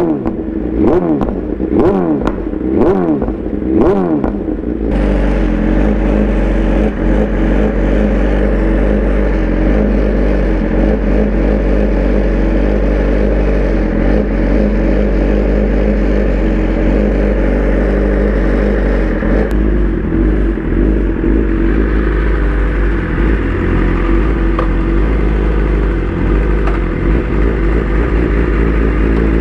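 Inline-four superbike engines with loud exhausts: about five sharp rev blips in the first five seconds, each rising and falling in pitch, then a steady engine drone under way with a constant rush of noise.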